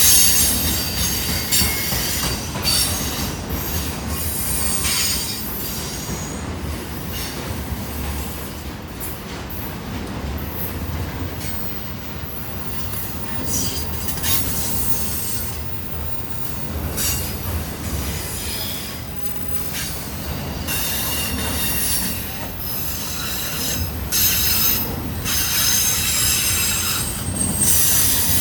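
A long train rolling past close by: a steady rumble from the cars on the rails, with high-pitched wheel squeal that comes and goes, loudest at the start and again near the end.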